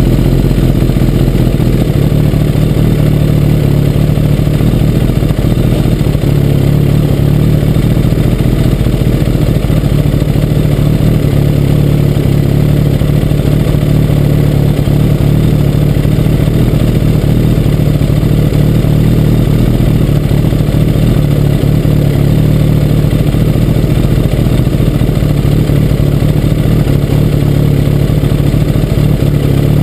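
Kawasaki ZX-10 sport bike's inline-four engine idling steadily while the motorcycle stands still.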